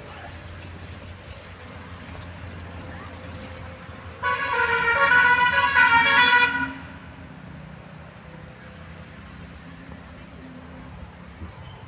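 A vehicle horn sounds once in a single long blast of about two and a half seconds, over a steady low hum.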